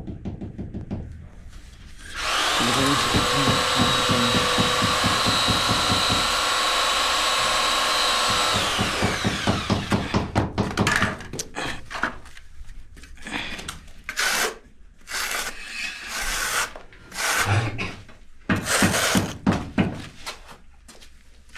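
A power drill runs at full speed for about six seconds with a steady whine, then winds down as the trigger is released. Irregular knocks and clatter of tools and material follow.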